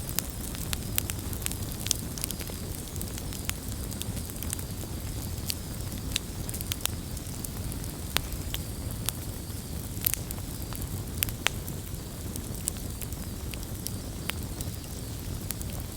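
Campfire burning with steady crackling: a low rumble and hiss of the flames under many sharp, irregular pops and snaps of the wood.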